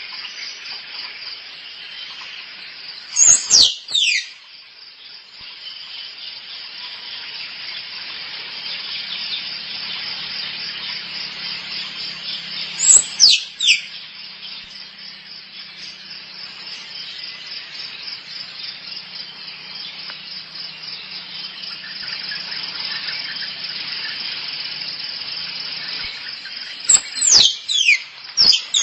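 Squirrel calling: three bouts of loud, high, squeaky chirps that fall sharply in pitch, each bout about a second long, over a steady chorus of insects.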